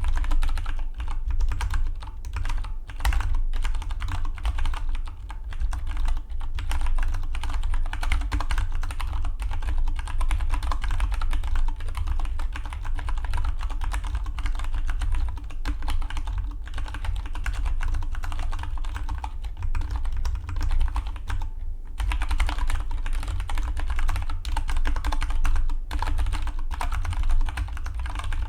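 Fast, continuous typing on a Dygma Defy split mechanical keyboard: a dense stream of key clicks, with a brief pause about three-quarters of the way through before the typing resumes.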